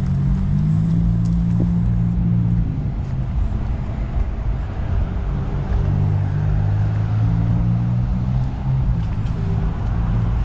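Low, steady rumble of an idling diesel locomotive, a few deep tones that shift slightly every few seconds.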